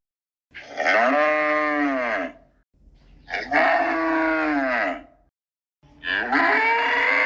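Cow mooing three times, each moo about two seconds long with its pitch rising and then falling, separated by dead silence.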